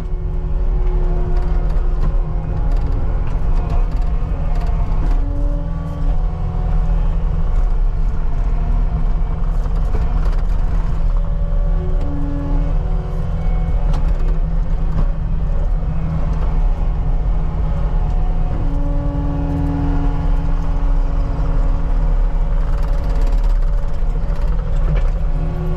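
CAT 279D compact track loader's diesel engine running steadily under working load while pushing and packing dirt, with a few brief steady tones riding over the engine drone.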